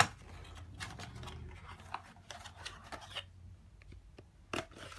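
Unboxing handling: a sharp click at the start, then scattered rustling and light clicks of the box and its contents being handled.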